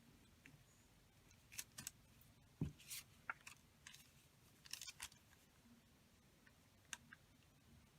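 Faint paper and craft-tool handling on a desk: a scattering of light clicks and short rustles, a few at a time.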